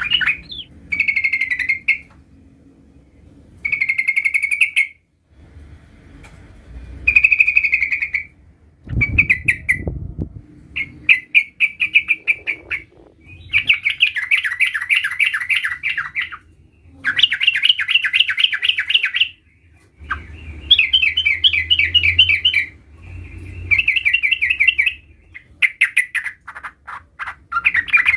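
Yellow-vented bulbul (trucukan) singing in repeated bursts of rapid chattering trills, each phrase one to three seconds long with short pauses between. A low bump sounds about nine seconds in.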